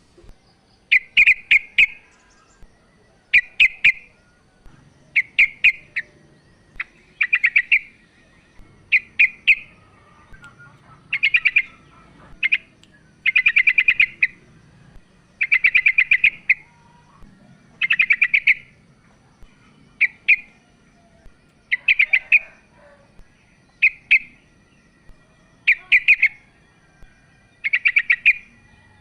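Female yellow-vented bulbul (trucukan) calling: short bursts of rapid chattering notes, repeated about every two seconds.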